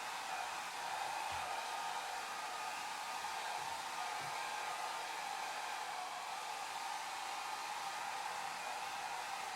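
Hair dryer running steadily: an even rush of blown air with a faint, steady motor whine on top.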